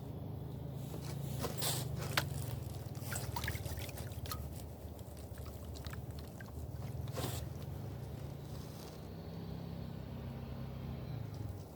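Gold pan of roasted ore being worked in water: water sloshing and dripping, with scattered sharp clicks and scrapes of grit against the pan, over a steady low hum.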